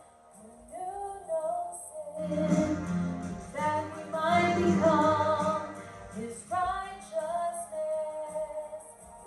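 Congregational worship music led by a woman's singing voice, the held sung notes gliding between pitches, with a fuller, louder passage a few seconds in.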